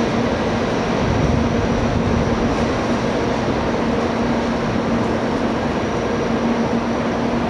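Steady rumble of a Shinkansen train in the station, with a constant low hum underneath and no distinct clanks or squeals.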